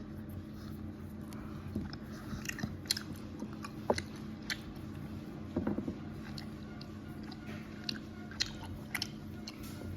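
Close-up mouth sounds of a person chewing Haribo gummy candies: wet, sticky smacks and clicks at irregular moments, with a short cluster of them about halfway through.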